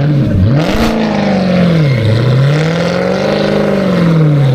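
A vehicle engine revving up and down over and over, its pitch swelling and sinking in slow waves about every two seconds.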